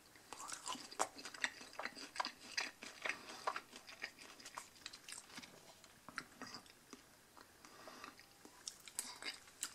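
A person chewing a chicken nugget close to the microphone: a quiet, irregular run of short mouth clicks and smacks, which thins out about two-thirds of the way through and picks up again near the end.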